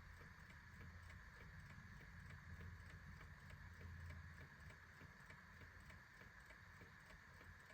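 Clock ticking faintly with an even, steady beat over a low steady hum.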